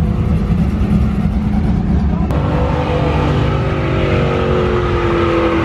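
A car engine revving hard, its pitch slowly dropping, starting a little over two seconds in over a steady low rumble of engines.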